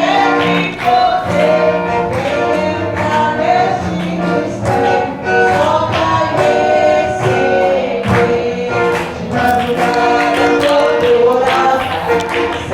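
A church congregation or choir singing a gospel hymn with instrumental accompaniment, heard from outside the building.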